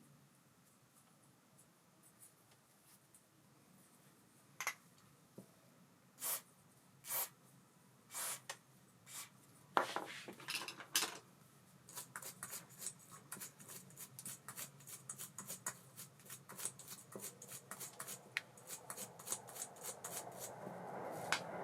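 Small metal clicks and taps from an Abu Garcia Ambassadeur 5500C baitcasting reel being handled and worked on. A few separate clicks, then a run of quick clicks, several a second. A rushing sound builds near the end.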